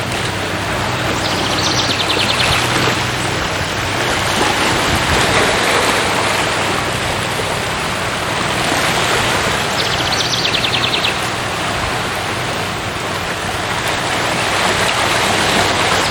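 Rushing water runs steadily throughout, with a brief, rapid high trill three times, at about a second and a half in, near the middle and near the end, typical of a small bird in the forest.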